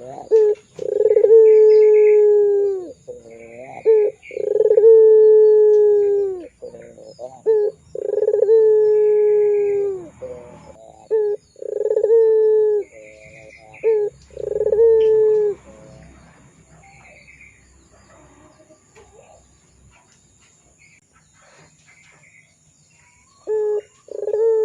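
Puter pelung, a domestic ringneck dove, cooing: a run of long drawn coos, each slightly falling in pitch and led in by short notes. The coos repeat about every three and a half seconds, fall quiet for several seconds in the second half, and start again near the end.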